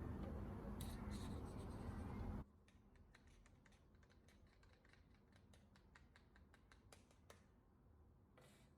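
Faint steady hum that cuts off suddenly after about two and a half seconds, then near silence with many faint, light clicks.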